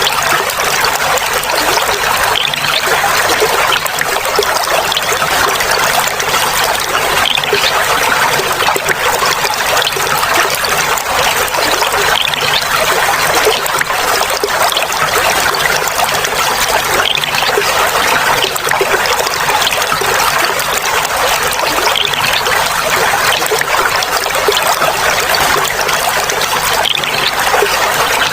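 Clear water flowing and trickling steadily, a continuous babbling splash.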